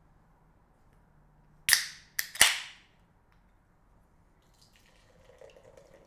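Three sharp cracks in quick succession, each trailing off in a short hiss, followed by a faint crackling fizz near the end.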